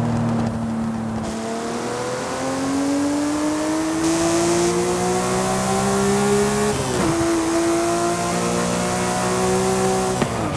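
Porsche 911 Speedster's flat-six engine pulling hard under acceleration, its pitch climbing for several seconds. The pitch drops sharply at an upshift about seven seconds in, pulls again and drops at a second upshift near the end.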